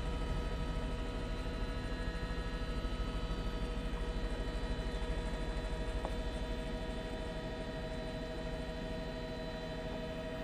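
Helicopter noise heard from inside the cabin: a steady engine whine over a low, rapid, even pulsing drone from the rotor.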